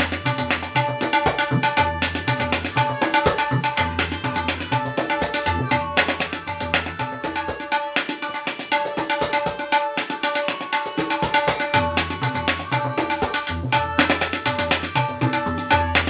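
Tabla solo in teentaal: fast, dense strokes on the dayan and bayan. The deep bass strokes of the bayan drop out for a few seconds in the middle, then return.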